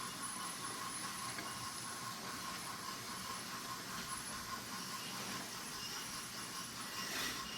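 Many small battery-powered electric toy trains running at once on wooden track: a steady whir of their little motors with faint high whines, plus the rolling of their wheels. A brief louder rush comes near the end.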